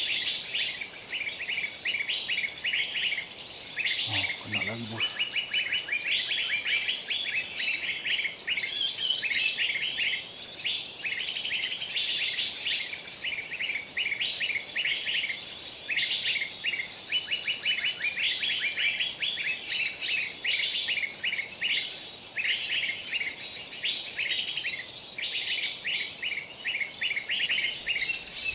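Dense, rapid chirping of small forest birds, overlapping calls repeating without pause, over a steady high-pitched insect drone.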